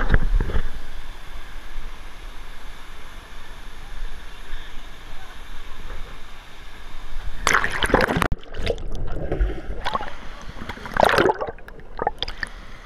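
Water sloshing and splashing close by, with a steady rush of water and a loud splash about seven and a half seconds in, then another about eleven seconds in.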